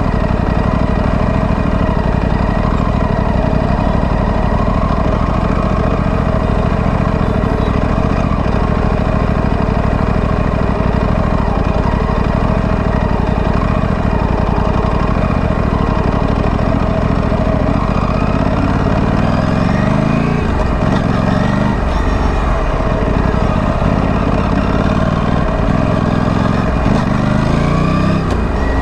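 Aprilia Tuono 457's parallel-twin engine through its stock exhaust, running steadily at low revs, then revving up twice in the second half.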